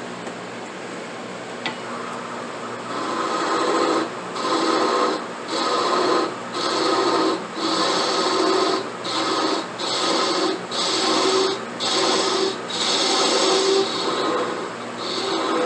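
Hand-shaping of a briar pipe bowl with a file or abrasive: a series of rasping strokes, roughly one a second. The strokes begin about three seconds in.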